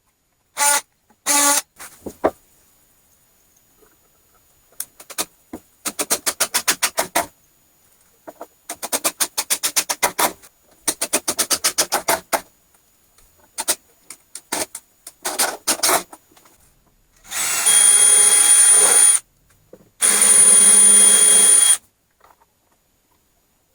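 Power drill-driver driving screws into wood in short trigger pulls: several runs of rapid, even rattling strokes, then two longer steady runs with a high whine near the end.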